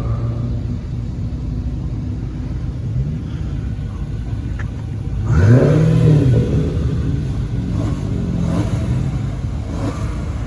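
Car engines running at a steady drone, with a loud rev that rises and falls about five seconds in and smaller revs near the end.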